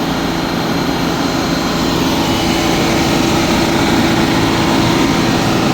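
1988 Amertek 4x4 fire truck's engine running steadily at raised throttle, driving the water pump for the side-reel hose.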